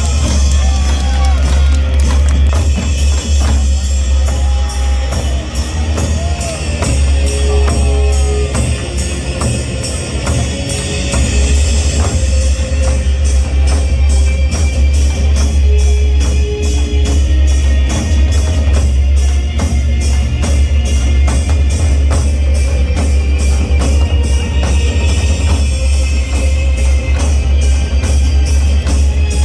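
Korean drum performance: drums playing a steady, driving rhythm of about two beats a second over a heavy low bass.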